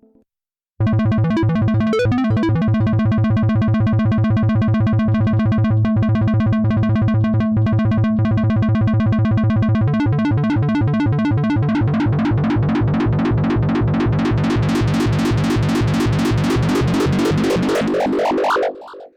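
Cherry Audio P10 software polysynth playing an arpeggiator preset: a fast, even stream of repeated synth notes that starts about a second in. Past the middle the tone grows steadily brighter, rising near the end before it cuts off abruptly.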